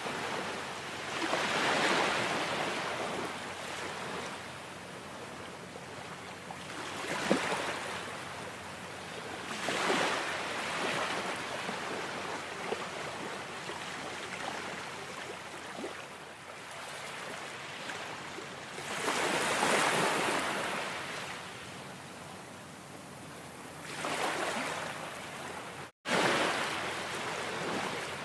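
Ocean waves washing onto a shore: a steady hiss of surf that swells and falls back as each wave breaks, every few seconds. The sound cuts out for an instant near the end.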